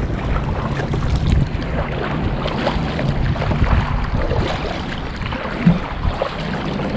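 Boat engine running steadily under way while towing a jet ski, with wind buffeting the microphone and water rushing past. One brief thump late on.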